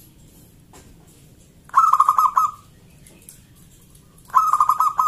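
Zebra dove (local perkutut) cooing: two phrases of rapid staccato coo notes, each just under a second long, about two and a half seconds apart.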